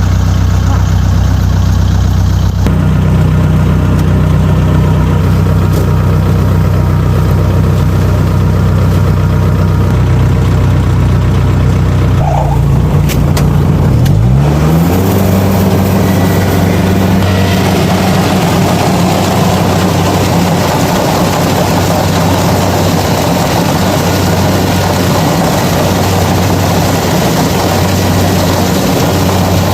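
Kubota DC-70 combine harvester's diesel engine running steadily, then revving up a little under halfway through and running on at a higher speed, with a rougher mechanical noise building in soon after.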